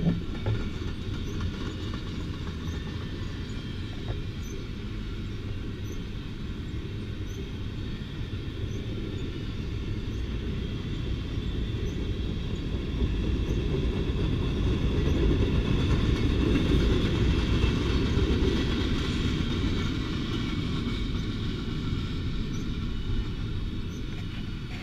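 Intermodal freight train of double-stack well cars rolling past, a steady rumble of wheels on rail that swells about halfway through and eases toward the end.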